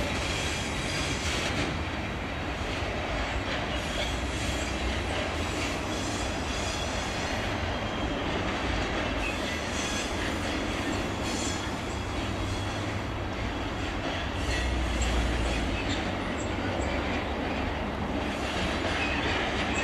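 Loaded timber wagons of a freight train rolling over pointwork: a steady rumble and clatter of wheels on rail joints and crossings, with some faint wheel squeal.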